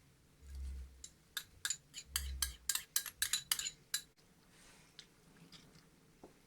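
A metal utensil clinking rapidly against a dish, about a dozen quick sharp clinks, with two dull thumps, one before them and one among them.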